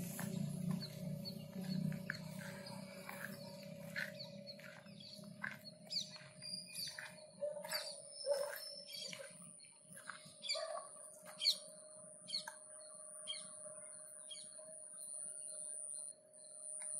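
Birds calling in short, quick chirps that drop in pitch, scattered irregularly and busiest in the middle, over a steady high-pitched insect whine and a low steady hum. A low rumble sits under the first few seconds.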